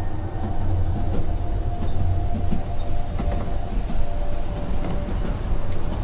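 Indian passenger train running, heard from inside a carriage: a steady low rumble of the wheels on the rails, with a faint drawn-out tone that slowly sinks in pitch over the first five seconds.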